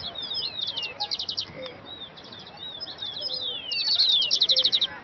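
Several small songbirds chirping and twittering, with quick down-sweeping whistled notes and fast trills of about ten notes a second; the loudest trill comes near the end.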